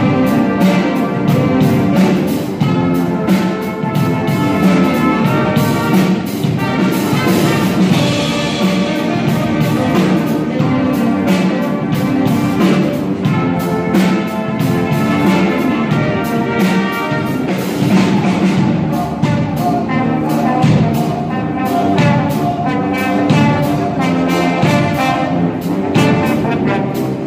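Brass band playing a lively tune, trumpets and saxophone over a steady beat.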